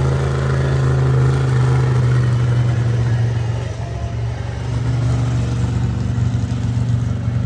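Monster truck engine running hard and fairly steadily, easing off briefly a little past halfway before picking up again.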